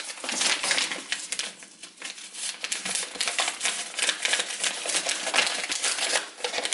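Paper and cardboard packaging rustling and crinkling with many small irregular clicks and taps, from booklets and leaflets being taken out of the box and handled.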